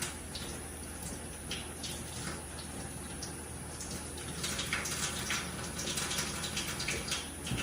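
Tap water running into a sink, with light clatter of things being handled in the water. The clatter grows busier about halfway through.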